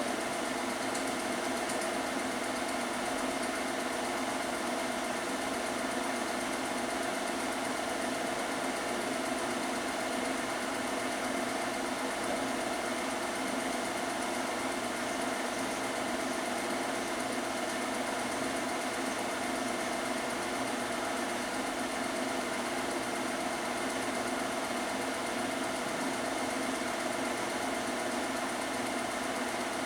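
Film projector running steadily, a constant mechanical whirr and rattle with a fixed hum.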